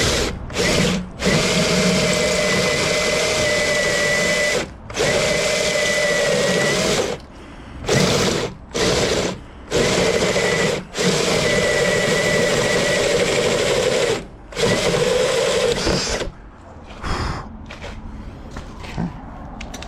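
Power drill cutting into a steel door, run in a string of bursts of about half a second to three seconds, stopping and restarting, with a steady whine. It goes quieter for the last few seconds.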